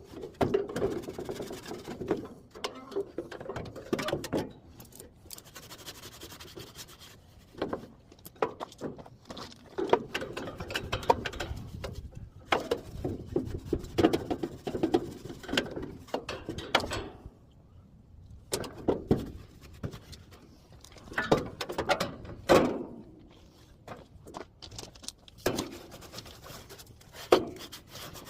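Rubbing and scrubbing strokes in irregular runs, broken by many sharp knocks and clatter, as parts of an air conditioner unit are cleaned by hand.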